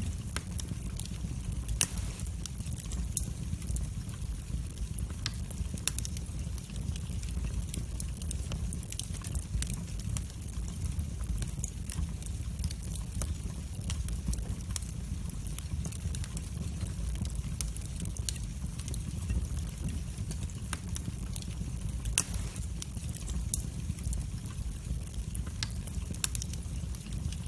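Wood fire burning in a fireplace: a steady low rumble of flame with irregular crackles and snaps, two sharper pops standing out about two seconds in and near the end.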